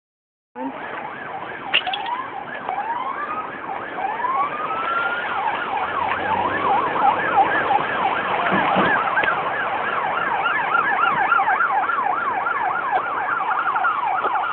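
Several emergency vehicle sirens sounding at once. There are slow rising wails at first, then several overlapping sirens cycling fast up and down in a yelp.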